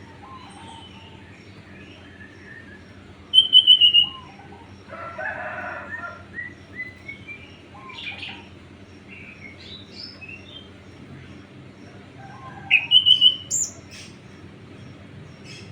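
Small birds chirping and calling. Two loud, quick runs of chirps come about three and a half seconds in and again near thirteen seconds, with scattered softer calls between, over a low steady hum.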